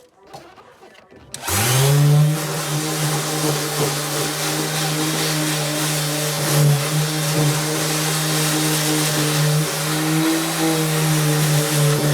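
Electric power sander starts about a second and a half in and runs steadily at one speed, grinding rust off sheet metal.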